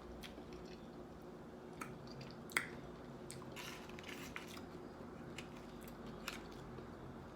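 A person chewing soft food, with faint wet mouth sounds and a few sharp clicks scattered through, the loudest about two and a half seconds in. A faint steady hum runs underneath.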